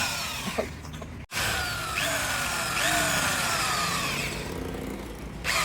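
A handheld power tool, like a drill, running on plastic, its pitch sliding up and down as the load changes. The sound breaks off sharply about a second in and picks up again at once.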